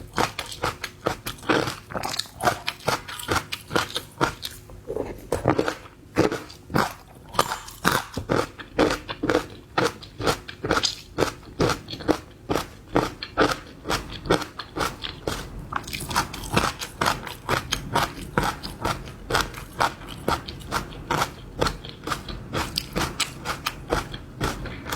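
Close-miked eating of seafood: crisp, crunching bites and wet chewing repeating two or three times a second, with a short lull a few seconds in.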